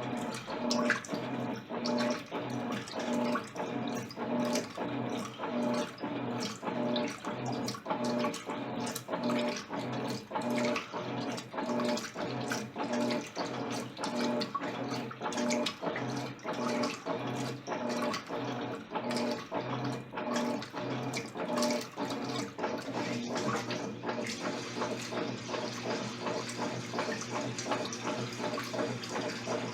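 Electrolux LTC10 top-loading washing machine agitating a load of jeans in water. The motor hums in short strokes a little over once a second, with water sloshing. About 23 seconds in the strokes stop and the sound turns steadier.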